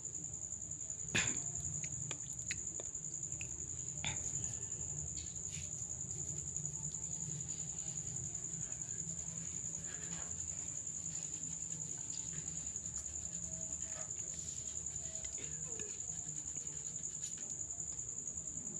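Crickets trilling steadily in the background, over a low hum, with a few short clicks, the sharpest about a second in.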